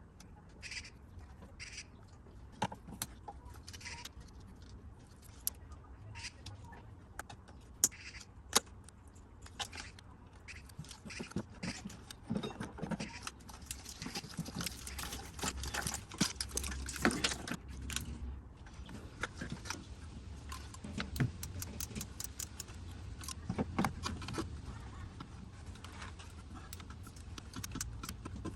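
Metal hand tools clicking and clinking against engine parts while manifold bolts are worked loose. The clicks are scattered at first, then come thick and fast through the middle stretch, over a low steady hum.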